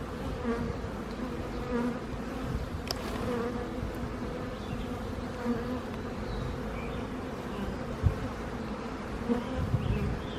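Many honey bees buzzing around an open, disturbed hive: a steady, wavering hum. A single short knock comes about eight seconds in.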